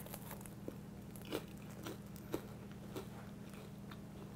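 A person chewing a bite of deep-fried flour tortilla coated in cinnamon sugar: faint, soft crunches about every half second, over a low steady hum.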